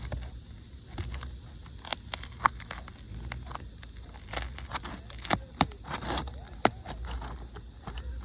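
A pry tool working under sealed 3-tab asphalt shingles gives irregular sharp cracks, crackles and scrapes as the stuck sealant lets go and the shingles tear. The tearing is the sign of old, brittle shingles that cannot be repaired.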